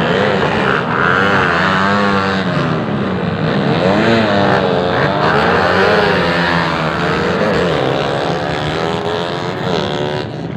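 Several racing engines revving at once, their pitch rising and falling again and again.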